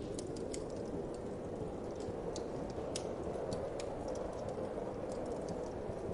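Wood fire crackling, with irregular sharp pops and snaps, over a steady low rushing of wind.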